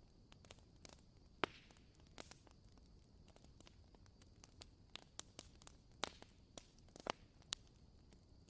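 Wooden-wick candle crackling: irregular, sharp little pops and ticks like a tiny campfire, a few louder pops standing out among fainter ones.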